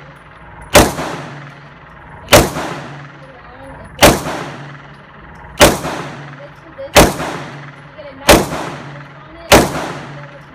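Seven gunshots fired at a steady pace, about one every second and a half. Each is a loud crack followed by a short echoing tail.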